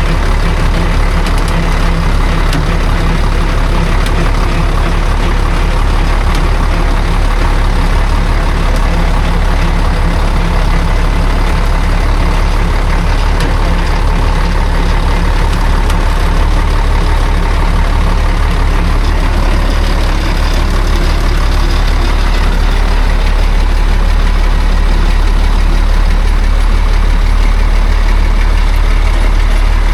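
Heavy truck engine running steadily and loud throughout.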